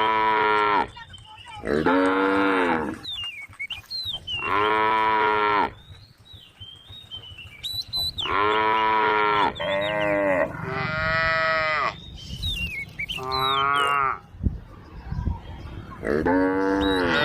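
A cow mooing over and over: about eight drawn-out calls of a second or so each, a few coming back to back, with short pauses between the others.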